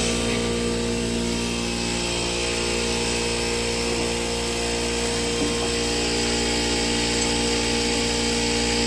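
A motor running steadily, a constant hum at one unchanging pitch.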